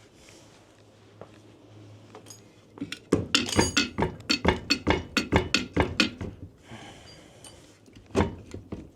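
Rapid metallic knocking and clinking, about five knocks a second for some three seconds, then a single knock near the end, as a MerCruiser Alpha One sterndrive leg is worked loose from its transom mounting after its nuts are removed.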